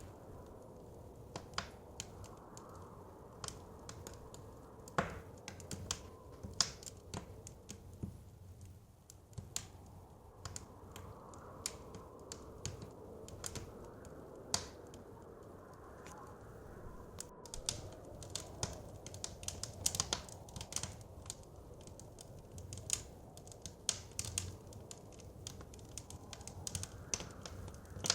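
Wood fire crackling, with frequent irregular sharp pops and snaps. Under it, a soft blizzard wind howls, slowly rising and falling.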